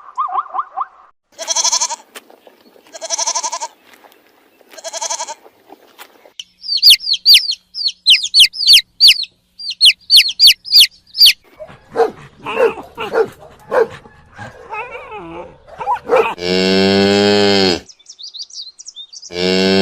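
A run of different animal calls: three short calls in the first few seconds, a burst of rapid high chirps, then two long, low cow moos near the end.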